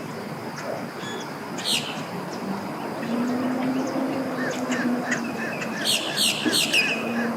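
Several songbirds chirping and singing: a falling whistled note just under two seconds in, then a quick run of repeated notes with louder chirps near the end. A steady low hum runs underneath.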